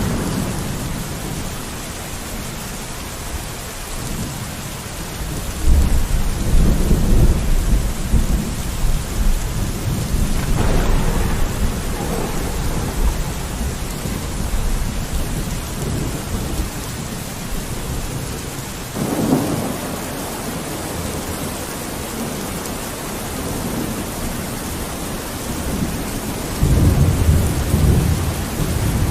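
Steady rain falling on a window, with rolling thunder rumbling in three times: about six seconds in for several seconds, again around two-thirds of the way through, and once more near the end.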